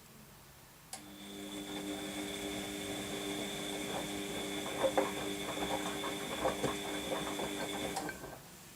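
Washing machine drum motor starting with a click, running for about seven seconds as a steady hum with a high whine over irregular clicks and knocks from the tumbling load, then stopping abruptly. It is a single turn of the drum between pauses in the wash phase.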